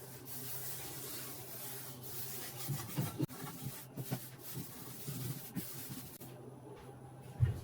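Faint rubbing and light handling knocks over a steady low hum.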